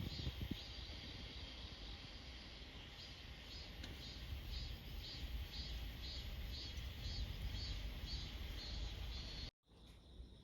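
Insects chirping in a steady rhythm, a high pulse about twice a second, over a low rumble of wind on the microphone; the sound cuts off abruptly near the end.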